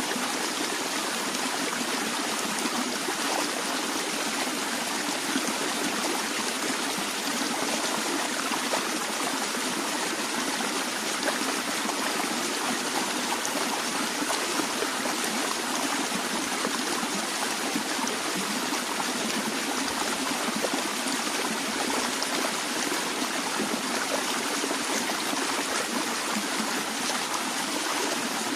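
A stream of water flowing steadily, with a small trickling and splashing texture.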